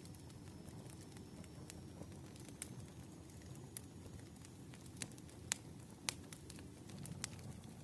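Campfire of burning firewood crackling: irregular sharp pops and snaps over a low steady rumble of the flames, with a few louder snaps a little past the middle.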